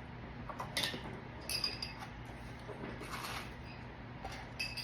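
A few light clinks of cutlery against a plate, four short taps spaced out, over a low steady hum.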